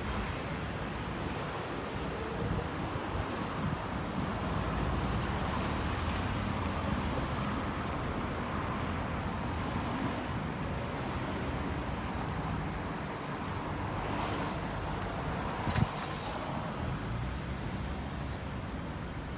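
Steady noise of passing road traffic, swelling and easing as vehicles go by, with a single sharp knock near the end.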